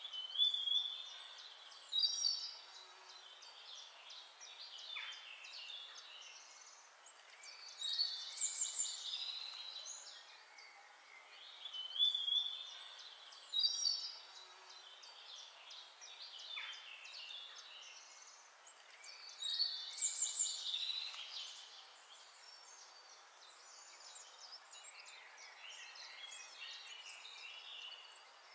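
Birds singing: clusters of high chirps and short whistled phrases every few seconds, over a faint steady hiss.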